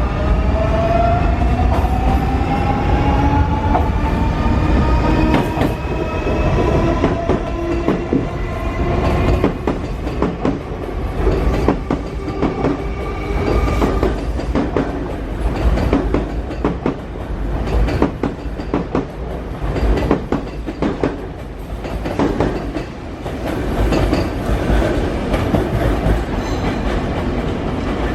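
Nankai electric train accelerating, its traction motor whine rising in pitch over the first ten seconds or so. Wheels clack over rail joints and points all through.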